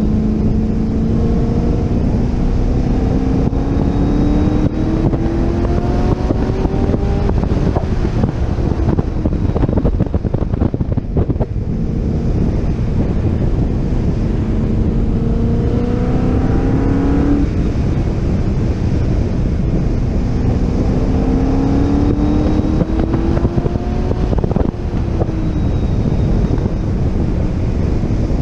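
C6 Corvette Z06's 7.0-litre LS7 V8 under hard acceleration on a track lap. The engine note climbs in three long pulls, each ending in a sudden drop in pitch, under heavy wind noise on the microphone.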